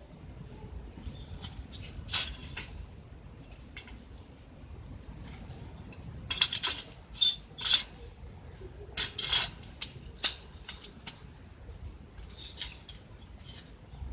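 Intermittent clinks and clatters of metal camp cookware and utensils being handled, in short bunches with pauses between.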